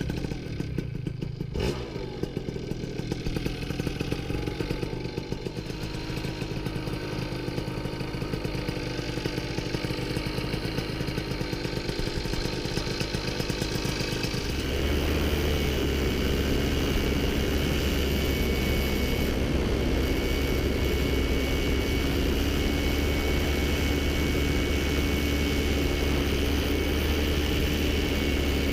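Vittorazzi Fly Evo 100 single-cylinder two-stroke paramotor engine running, then opened up to a louder, steady higher-throttle run about halfway through.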